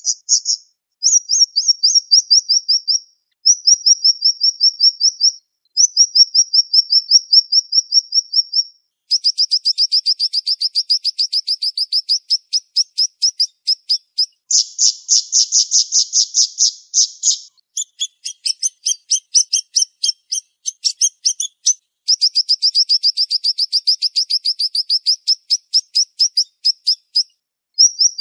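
Siri-siri songbird singing fast, tight trills of sharp, high repeated notes, delivered in runs of two to five seconds with short breaks between them.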